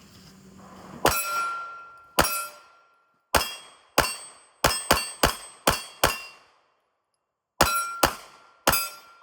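Pistol shots, each followed by the ringing clang of a steel target being hit: about a dozen rounds, spaced at first and then in quicker strings, with a short pause before a final run of three. The shots come from a ported, compensated Springfield Echelon pistol.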